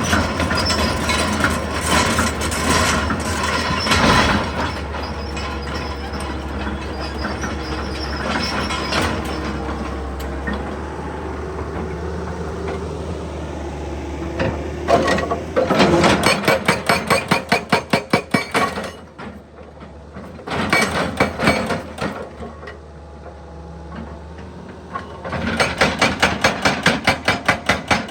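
Excavator-mounted hydraulic breaker hammering, in three bursts of rapid blows at several a second in the second half, with the excavator's engine running and metal clanking between and before them.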